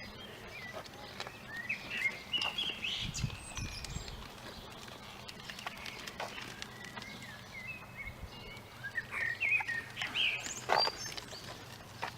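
Songbirds singing outdoors: repeated short, chirping phrases of quick whistled notes, busiest about two to four seconds in and again near the end. A brief low rumble comes about three seconds in.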